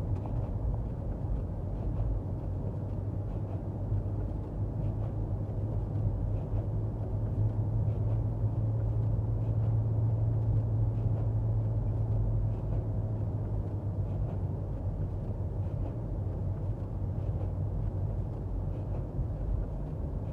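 Car engine and road noise heard from inside the cabin while driving: a steady low drone that grows a little louder about halfway through, then eases back.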